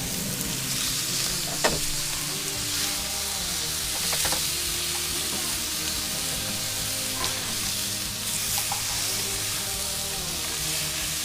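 Sausages and bacon sizzling as they fry in a pan, a steady hiss with a few sharp clicks.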